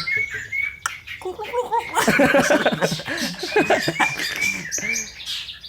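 A caged trucukan (yellow-vented bulbul) chirping in short repeated whistled notes, with people laughing over it in the middle.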